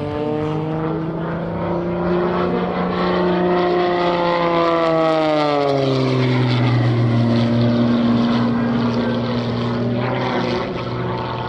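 Propeller and piston engine of an MXS-RH aerobatic airplane flying a display. The note climbs slowly, falls away about five to six seconds in, then holds steady at a lower pitch.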